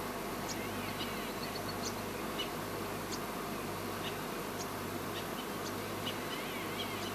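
Small birds calling: many short, high chirps and twitters scattered throughout, over a steady low hum and background noise.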